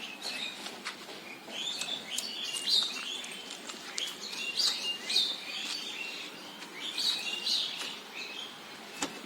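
Small birds chirping: many short, high chirps in clusters, with a single sharp click near the end.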